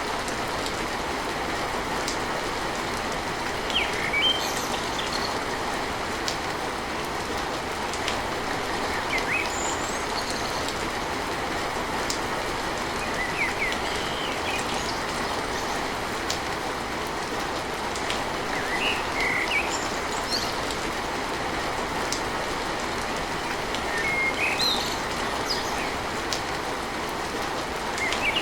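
Steady heavy rain drumming on a tin roof, an even rushing hiss. A bird chirps briefly every few seconds.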